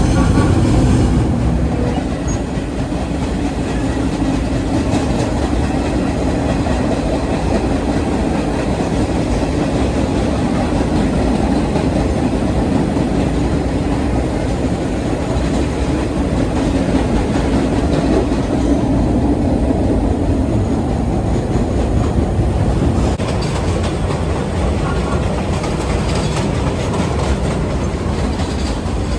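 Vintage R1-9 subway train running along the line with a steady, loud rumble. A run of quick clicks from the wheels and track comes in near the end.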